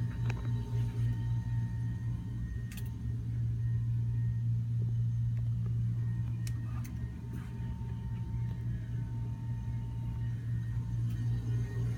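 Steady low hum of a boat's cabin air-conditioning unit running, with a faint high whine over it and a few light clicks.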